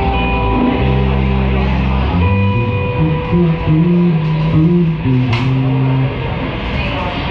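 Live rock band playing, electric guitar and bass guitar to the fore; about two seconds in the held low notes give way to a moving bass line.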